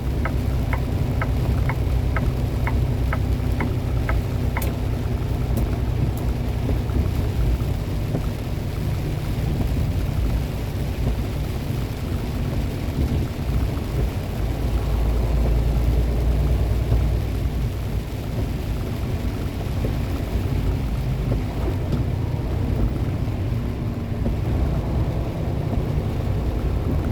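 Semi truck on the road, heard from inside the cab: a steady low engine and road drone. Over it, a turn-signal flasher clicks about three times a second for the first four or five seconds, then stops.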